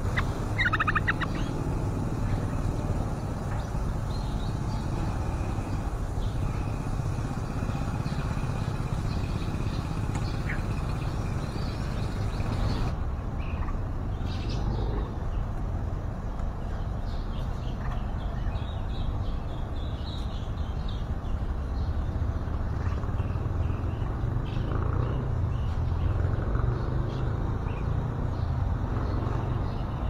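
Short high bird chirps over a steady low rumble. There is a quick run of chirps about a second in, and fainter scattered chirps later on.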